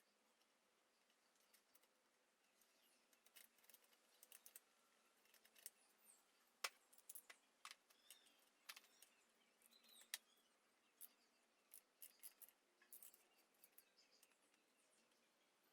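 Near silence broken by faint, scattered short clicks and ticks, the loudest about two-thirds of the way in, with a few faint chirps.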